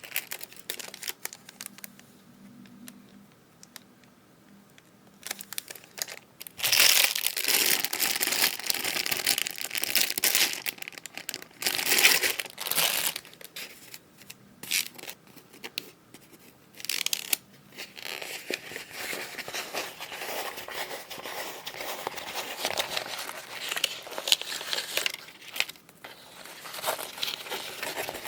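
Packaging being handled and opened by hand, crinkling and rustling with some tearing. Quiet for the first few seconds, then handling in stretches with short pauses.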